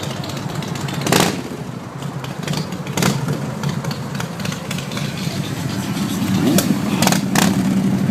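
Vehicle engines running steadily at low speed, with sharp clicks or knocks about a second in, around three seconds in, and three more near the end.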